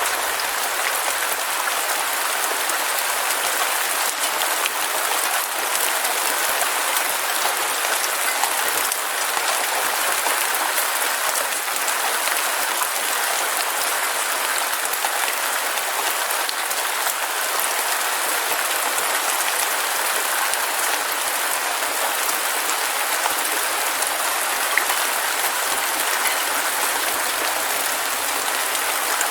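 Heavy rain falling steadily, a dense even patter with fine crackle from countless drops.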